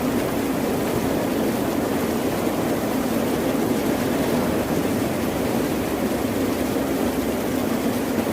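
Continuous low roar of water, a steady rumbling wash with no separate wave breaks or other events.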